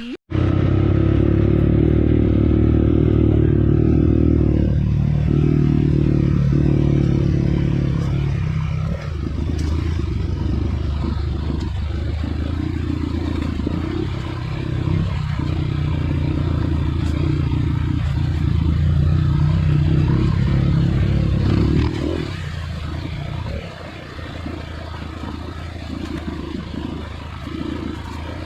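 Off-road trail motorcycle engine running steadily under throttle. Its level drops a little about three-quarters of the way through and stays lower to the end.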